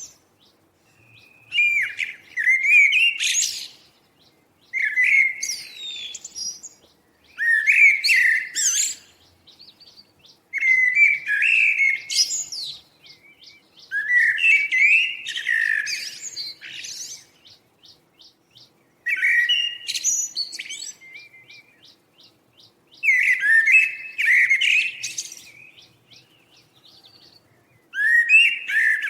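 A songbird singing: a rapid, warbled song of about two to three seconds, repeated about eight times with short pauses between, and brief runs of quick high ticks between some phrases.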